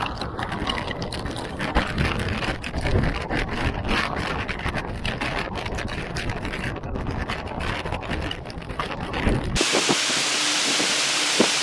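Tropical-storm wind buffeting the microphone: a gusty rumble full of crackles. About nine and a half seconds in it cuts abruptly to a steady hiss of heavy rain.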